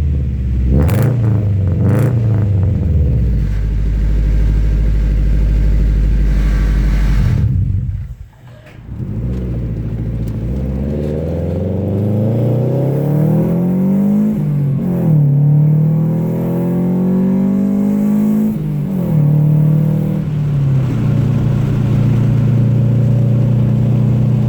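Honda B18B 1.8-litre four-cylinder in a 1994 Acura Integra, fitted with an unequal-length header for a Subaru-style boxer burble, idling and blipped twice. After a short break it accelerates on the road, rising in pitch through two upshifts where the pitch drops, then runs steadily.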